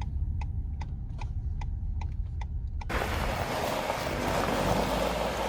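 A car's turn signal ticking steadily, about two and a half ticks a second, over the low rumble of the engine heard inside the cabin. About three seconds in, the sound cuts abruptly to a loud, even rushing, like wind on the microphone.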